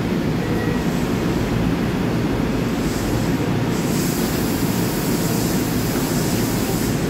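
LIRR M9 electric train standing at the platform with its doors open, its on-board equipment running as a steady low rumble. A high hiss joins about four seconds in and stops near the end.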